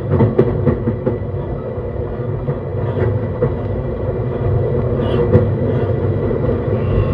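Onboard running noise of a JR East E131 series 600 subseries electric train: a steady wheel-on-rail rumble with a few sharp clicks in the first second. A faint steady high whine runs underneath.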